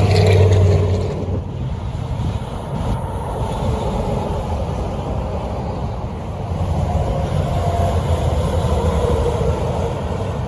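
Road traffic with heavy trucks passing. One truck's engine fades off about a second in, and another engine comes up around two-thirds of the way through, over steady tyre and road noise.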